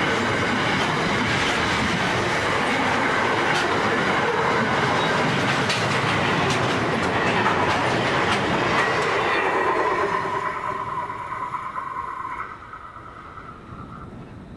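Intermodal container wagons of a long freight train rolling past: steady wheel rumble with clicks of the wheels over rail joints. About ten seconds in, as the last wagon passes, the sound fades away, leaving a thin wheel squeal that dies out as the train recedes.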